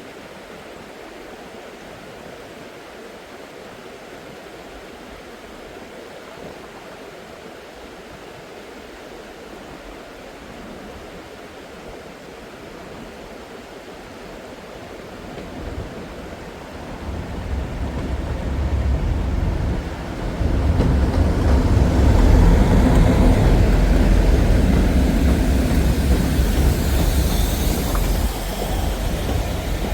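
A train approaches and passes on a heritage railway line: a steady hiss at first, then a deep rumble that builds from about halfway in and is loudest in the last third, with a brief high-pitched sound near the end.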